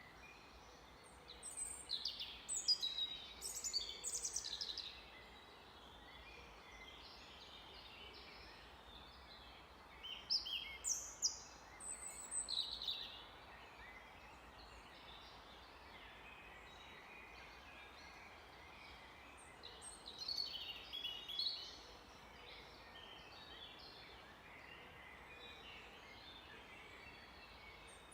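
Songbird singing in three bursts of quick, varied high notes a few seconds long, spaced several seconds apart, over a steady faint hiss of background noise.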